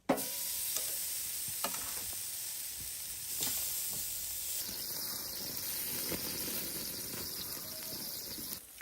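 Steak sizzling on a wood-fire barbecue grill: a dense steady hiss with a few sharp pops in the first few seconds, dropping off abruptly just before the end.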